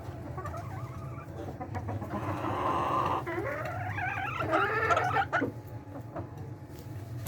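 Layer hens clucking, with one longer pitched call starting about two seconds in that rises and then wavers for about three seconds. A steady low hum runs underneath.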